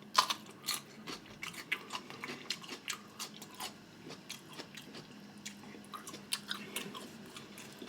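Close-miked chewing: a person eating, with irregular wet mouth clicks and light crunching as the food is bitten and chewed.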